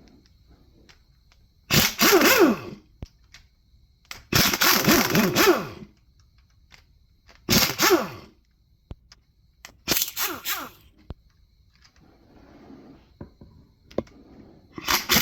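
Repeated scraping strokes of a tool against an engine's metal, about five strokes, each one half a second to a second and a half long with a squeal that falls in pitch.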